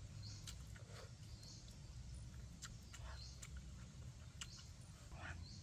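Faint chewing and wet mouth clicks of someone eating grilled squid, over a low steady background rumble. A few short high chirps sound now and then.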